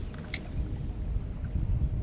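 Low, steady rumble of wind and water around a fishing boat, with one short click about a third of a second in.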